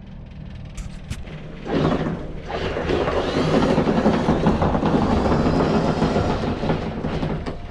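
Electric anchor windlass hauling in the anchor chain: the chain clatters over the windlass over a steady motor hum. The hauling starts about two seconds in and eases off near the end.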